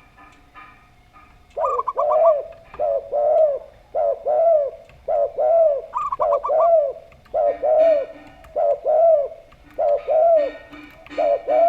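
Zebra dove and spotted dove cooing. After a quiet first second and a half, a call cycle repeats three times: a quick run of about five short, higher stuttering notes followed by a string of arched, rising-and-falling coos, with fainter low coos between.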